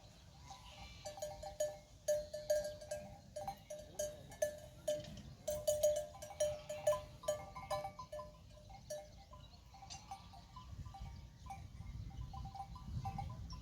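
Bells hung on grazing livestock clinking irregularly, short ringing notes that come thickest in the middle, over a low steady rumble.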